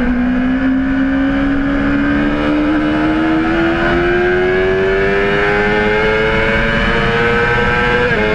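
Honda CBR600RR inline-four engine pulling hard in one gear, its pitch climbing steadily for about eight seconds, then a quick upshift near the end.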